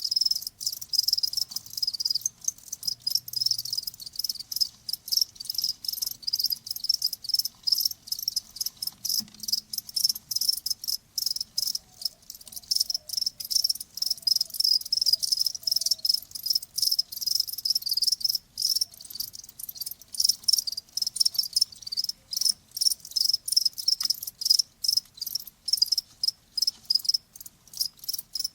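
Crickets chirping continuously: fast, high-pitched trilling chirps in quick succession.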